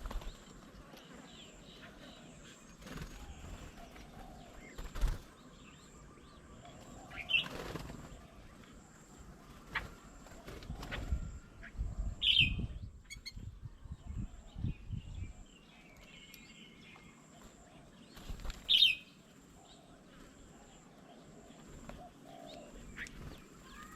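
Birds flapping their wings as they come and go at a feeding table, with a stretch of fluttering about halfway through. Three short, sharp bird calls ring out, the last near the end.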